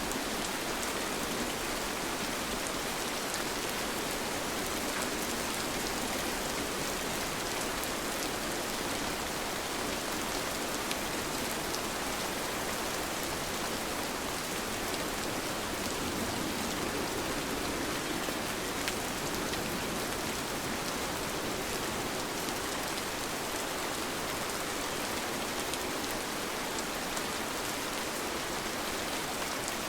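Steady rain falling, an even hiss with fine scattered drop ticks, unbroken and without thunder.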